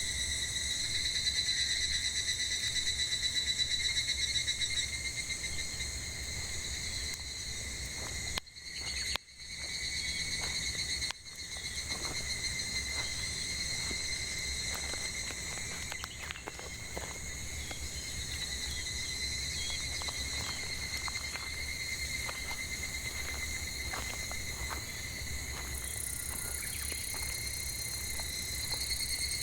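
Chorus of cicadas buzzing steadily and high-pitched, with faint scattered crackles from burning firewood. A second, higher insect buzz joins near the end, and the sound cuts out briefly twice near the middle.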